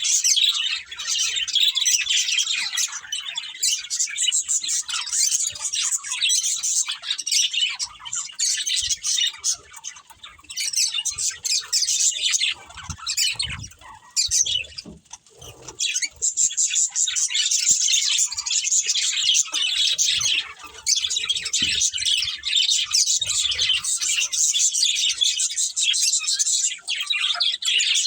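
Budgerigars chirping and chattering rapidly and almost without pause, with a brief quieter lull about halfway through.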